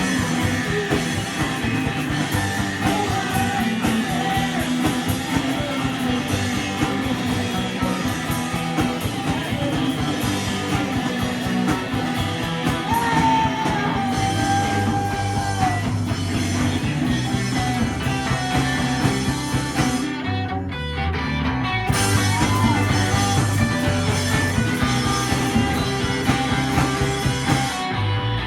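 A rock band playing live, with electric guitar, drums and singing.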